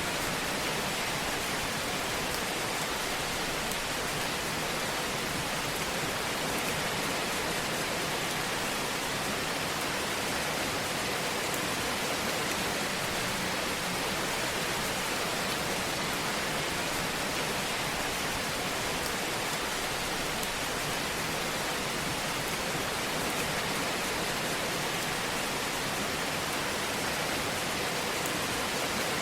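Fire burning in a fireplace, heard as a steady, even hiss.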